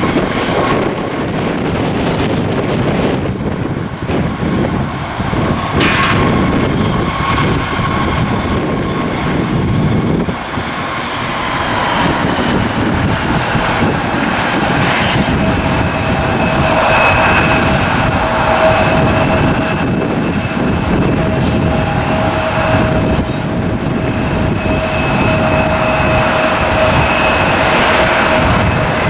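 Jet airliner engines running: a loud, steady rush with thin whining tones that come in about halfway through.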